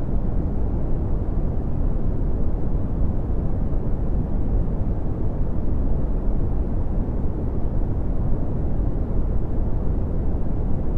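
Steady red (Brownian) noise: an even, deep rumbling hiss with most of its strength in the lows, falling away toward the highs, and no change over time.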